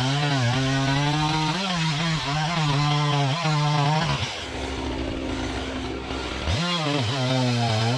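Chainsaw cutting logs into firewood rounds: the engine runs at high revs with its pitch dipping and recovering as it loads in the cut. It drops to idle about four seconds in, then revs back up near the end.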